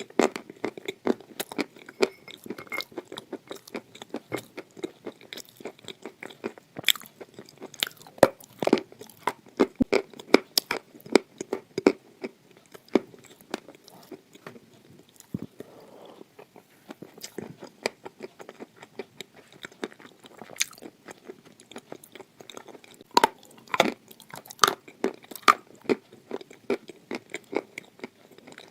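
Close-miked crunching and chewing of hard, dry red clay (khawa): crisp, sharp crunches come several times a second, with a short softer, quieter stretch about halfway through.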